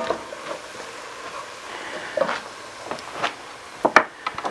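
Vegetables and flour cooking in melted butter in a pot, a steady sizzle, with a few scrapes and knocks of a spoon stirring from about two seconds in and a sharper knock near the end: the flour being cooked into a roux.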